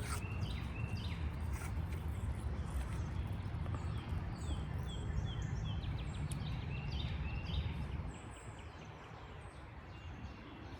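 Small birds chirping repeatedly with short, falling calls over a steady low rumble that drops away about eight seconds in.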